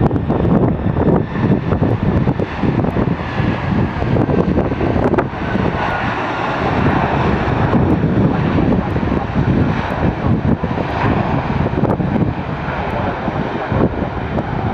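A jet airliner's engines, loud and close, as the aircraft passes, with a faint whine that slowly falls in pitch.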